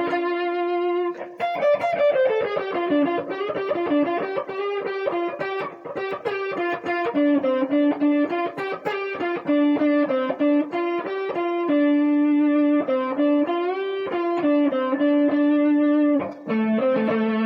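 Electric blues guitar playing a lead phrase: a quick run of single picked notes with string bends, ending on a held low note.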